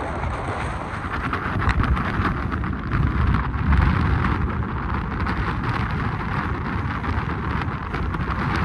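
Wind buffeting the microphone: a steady low rumbling noise that swells a little a few seconds in.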